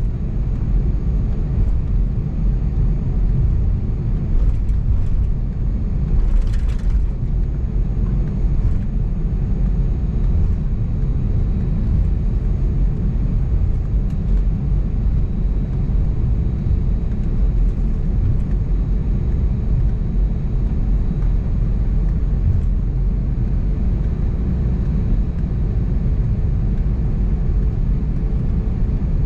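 Steady drone inside the cabin of an Airbus A320neo, its CFM LEAP-1A engines and airflow making a deep, even rumble. A brief hiss comes about six seconds in, with a few faint clicks.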